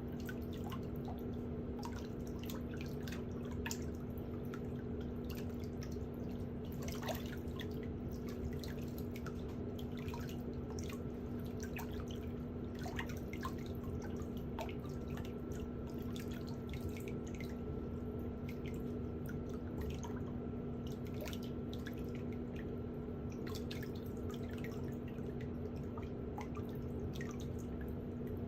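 Faint, irregular ticks and clicks of pedicure tools working on toenails, over a steady low electric hum.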